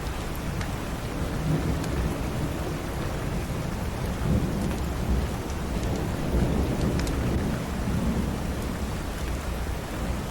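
Steady heavy rain with a low rolling rumble of thunder swelling through the middle and fading near the end. A few faint fireplace crackles tick over the top.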